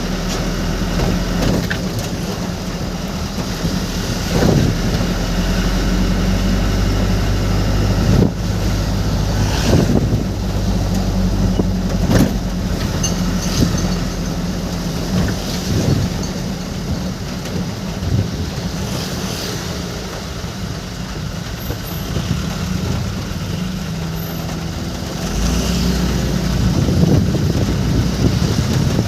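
Motor vehicle driving along the road: a steady low engine hum with road noise, and a few short knocks and bumps. The engine gets louder near the end.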